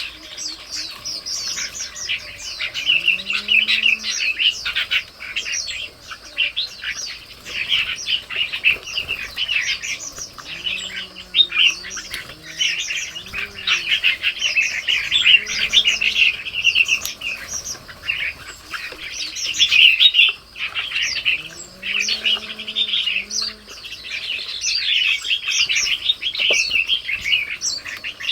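Birds chirping and twittering in a dense, continuous chorus of short high calls, with a few soft, low, arching calls underneath at intervals.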